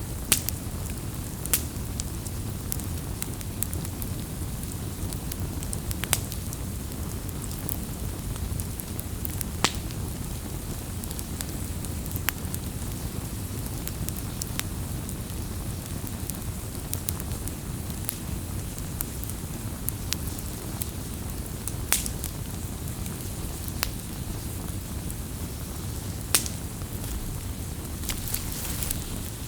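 Wood campfire burning with a steady low rumble, and sharp pops from the burning wood every few seconds.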